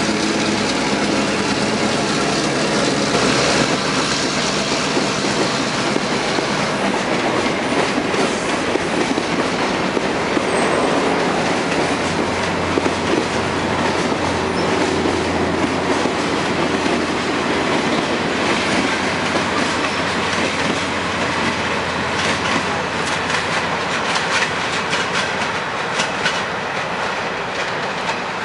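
Passenger train rolling past at close range: a steady rumble of the cars with wheels clicking over rail joints, the clicks sharpest and most frequent in the last several seconds.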